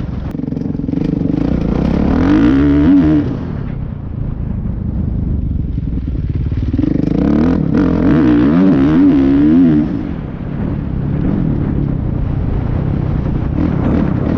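Dirt bike engine revving up and down. It is louder, with a wavering pitch, about two seconds in and again from about seven to ten seconds in, and each time it drops back sharply.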